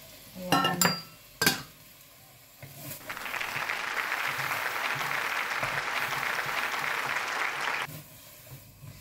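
A few sharp metal clinks, then chicken sizzling loudly in a wok as it is stirred with a spatula; the sizzle starts about three seconds in and cuts off suddenly near the end.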